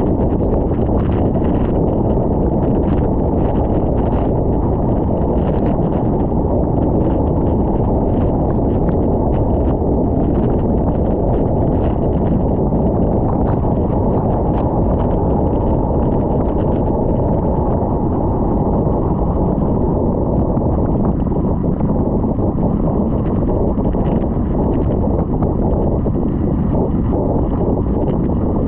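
Wind buffeting the microphone of a camera on a moving bicycle, a steady low rumble, with frequent small rattling clicks throughout.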